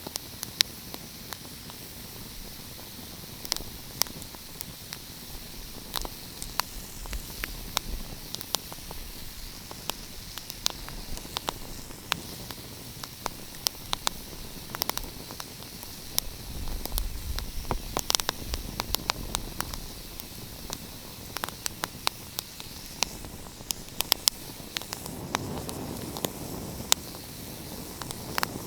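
Wood fire crackling: a steady hiss with frequent, irregular sharp pops and snaps. A low rumble swells a little past the middle and again near the end.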